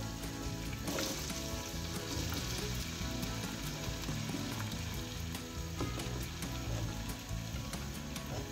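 Diced raw potatoes sizzling in hot oil as they are pushed off a wooden cutting board into a frying pan. The sizzle swells about a second in, with light clicks and scrapes from the spatula and falling potato pieces.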